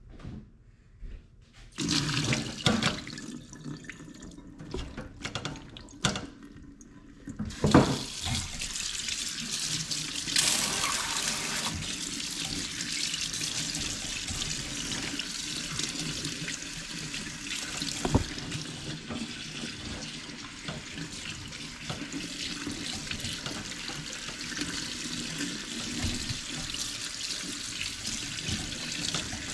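A few knocks and clatters, then water running steadily from a tap into a sink from about eight seconds in.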